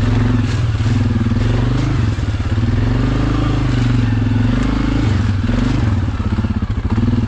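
Suzuki KingQuad ATV's single-cylinder four-stroke engine running under way, its note rising and falling as the throttle changes.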